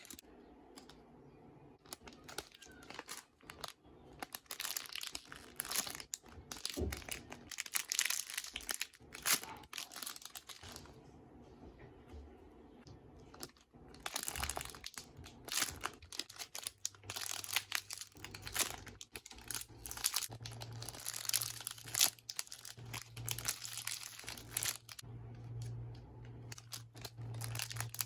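Plastic crinkling and rustling in irregular bursts as squishy toys are handled in their packaging, with a low steady hum joining about two-thirds of the way through.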